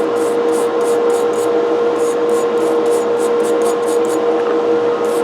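Brush scrubbing metal coffee-grinder parts in quick repeated strokes, about three a second, over a steady hum.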